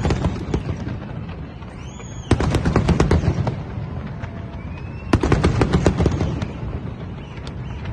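Fireworks going off in three rapid volleys of crackling bangs, each burst a second or two long, about every two and a half seconds.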